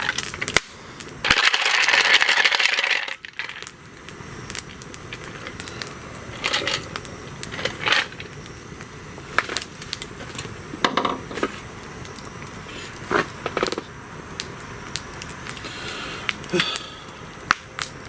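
Wood fire crackling, with sharp pops scattered irregularly. A loud hiss about two seconds long comes near the start.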